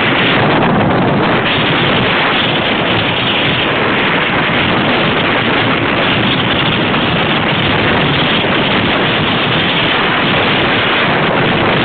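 Loud, steady wind noise from air rushing over the microphone of a wearable camera on a moving bicycle rider.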